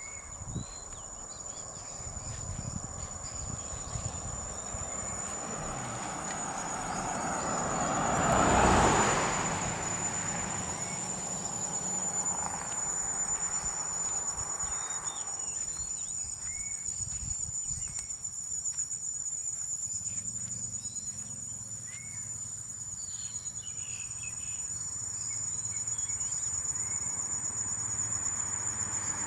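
Insects chirring in one steady, high-pitched drone, with a few faint short chirps. About eight seconds in, a louder rush of noise swells and fades.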